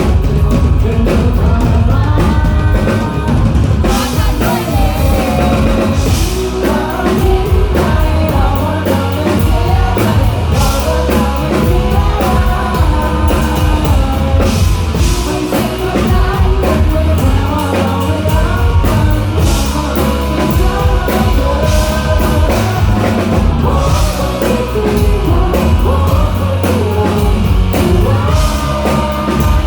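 Live rock band playing a song: a singer over drum kit and band, with the cymbals and drums hitting harder from about four seconds in.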